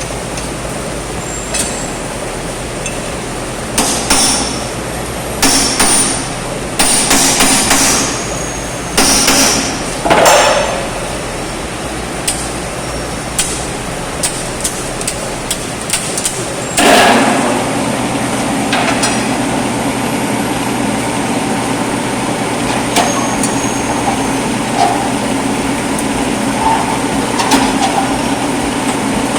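Hammer blows on steel, in several short runs of ringing metallic strikes. From a little past halfway a steady low engine or motor drone takes over.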